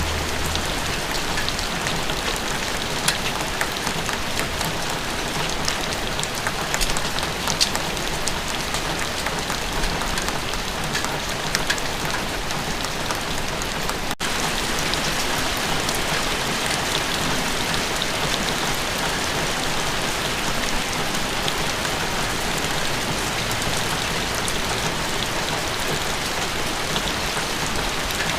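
Steady rain falling, an even hiss of drops on surfaces with scattered individual drop ticks. The sound cuts out for an instant about halfway through, then carries on unchanged.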